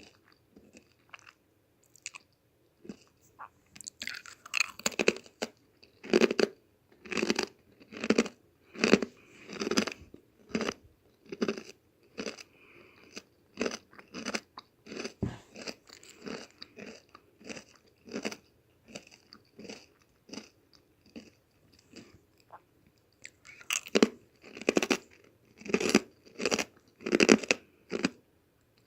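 Close-miked chewing of crunchy whole-wheat protein chip cookies: faint at first, then steady crunching chews about one or two a second, louder again near the end.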